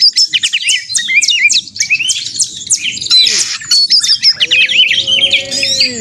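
Oriental magpie-robin (kacer) singing continuously and fast: a dense string of quick, high, sweeping whistled notes, the excited 'gacor' song used as a lure to set other kacer singing. From about four and a half seconds in, a lower held note sounds beneath it.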